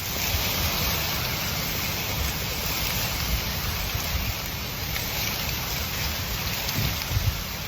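A dense swarm of locusts in flight, making a steady, even hiss.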